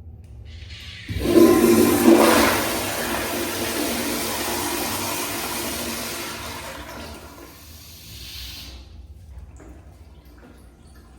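American Standard Madera flushometer toilet flushing: a sudden loud rush of water about a second in, which settles into a steady rush for several seconds, then fades out, leaving faint drips near the end.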